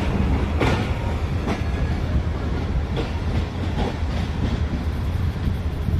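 Passenger train pulling away over jointed track: the coach wheels give a low rumble and clack over the rail joints, sharp clicks coming about once a second.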